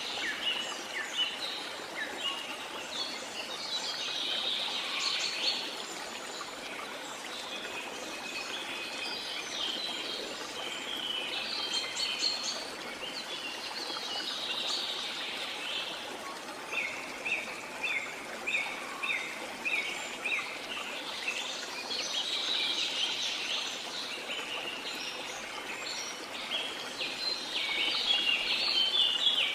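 Steady rush of a waterfall under many birds chirping and calling, including a run of about eight short repeated notes at roughly two a second in the middle. The birdsong stops suddenly at the very end, leaving only the water.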